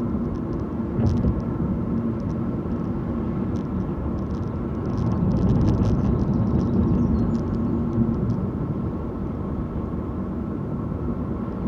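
A car driving along, its engine humming and tyres rumbling steadily, with a few light ticks and rattles.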